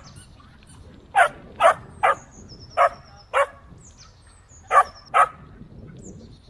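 A dog barking: seven sharp barks in short bunches of two or three, over a low outdoor background.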